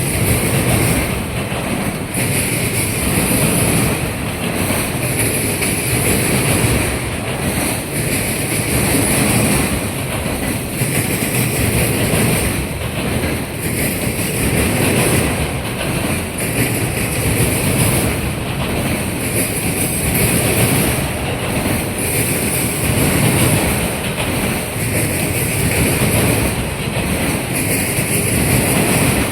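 Freight train of autorack cars rolling past over a railroad diamond crossing: steady loud wheel and car noise swelling in a repeating rhythm about every two seconds as the car trucks cross the diamond.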